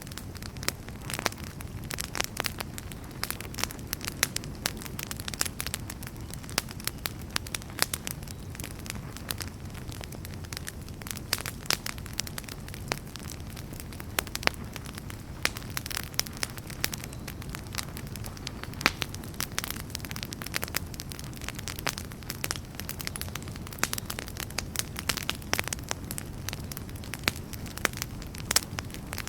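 Wood campfire burning, with frequent irregular sharp crackles and pops over a steady low rumble of flames.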